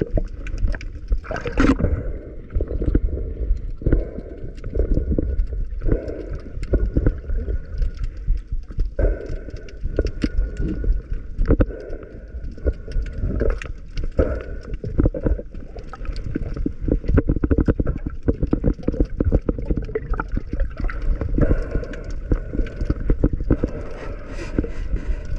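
Water heard underwater by a camera in a waterproof housing: a muffled low rumble with frequent clicks and knocks and some bubbling.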